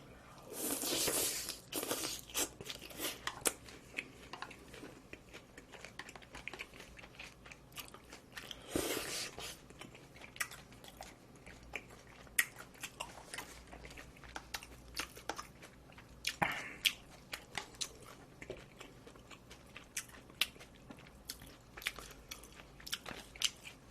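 Close-miked chewing: wet mouth clicks throughout, with a few longer crunchy bites about a second in, around nine seconds and around sixteen seconds.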